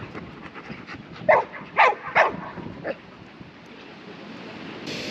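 A dog barking in play: three short, loud barks in quick succession about a second and a half in, and a fainter one near three seconds. A steady rumbling noise builds toward the end.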